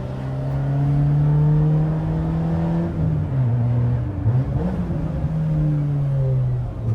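Peugeot 206's four-cylinder engine with a straight-piped exhaust and open intake, driven on the road: it pulls at steady revs for about three seconds, drops off throttle, gives a quick rev blip about four and a half seconds in, holds steady again, then falls away near the end.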